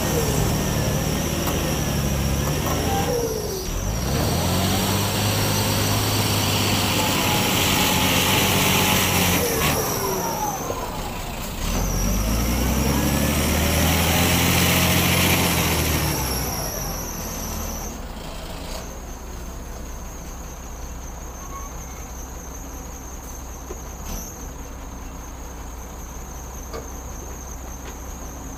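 Heavy diesel engine of a wheel loader revving up twice, each rev held for several seconds and then dropping, as it works loading sand; from about halfway through it settles to a quieter steady idle.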